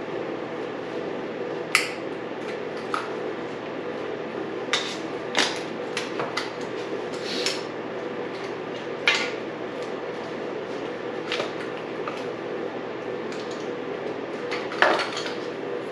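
Scattered sharp metallic clicks and clinks of hand tools and loose parts being handled while a dirt bike's intake is taken apart, a few knocks louder than the rest, over a steady low hum.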